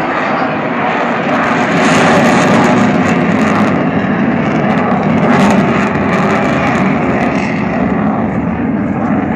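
Jet noise from a Dassault Mirage 2000's single SNECMA M53 turbofan as the fighter flies a display pass. It is a loud, continuous rushing roar that swells from about two to six seconds in, then eases slightly.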